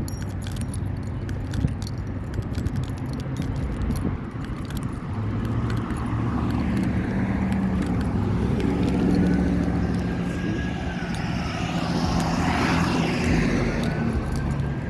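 A motor vehicle driving past: a low engine rumble builds from about six seconds in and stays strong through the second half, with a rising-then-falling pitch as it passes near the end. Light clicks sound in the first few seconds.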